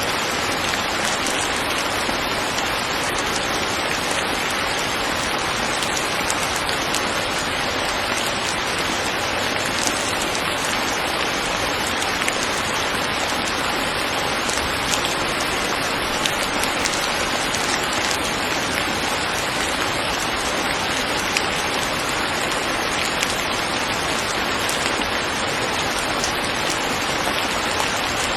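Steady rain falling on a surface, a constant hiss with faint scattered drop ticks.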